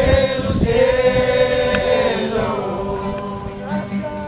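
A group of voices singing together, holding one long note that slides down in pitch about halfway through.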